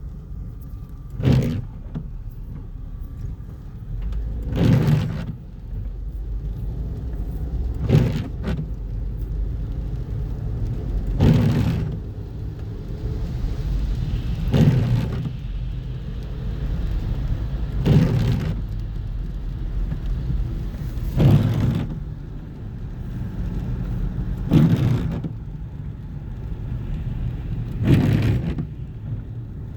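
Car driving, a steady low road and engine rumble, broken by a short, loud thump about every three seconds at a very even pace.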